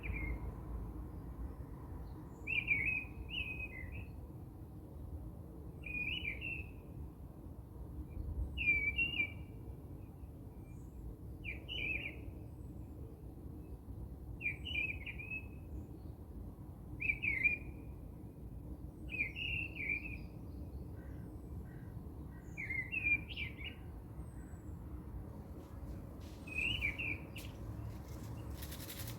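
A bird calling: a short chirpy phrase repeated about every three seconds, over low steady background noise.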